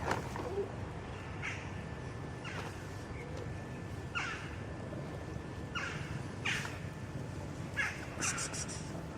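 A crow cawing over and over, short harsh calls about once a second, over a steady low background rumble.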